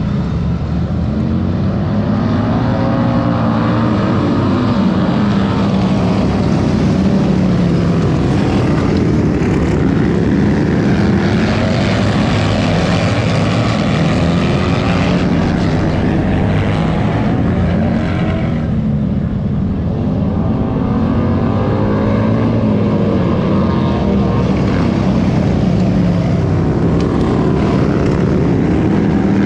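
Several racing motorcycle engines running hard on a track, their pitch rising and falling repeatedly as the bikes accelerate and pass.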